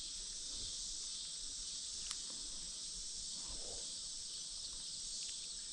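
Steady, high-pitched insect chorus, with a single faint tick about two seconds in.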